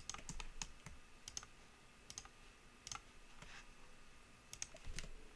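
Faint, irregular clicks of a computer mouse and keyboard, about a dozen sharp ticks spread unevenly.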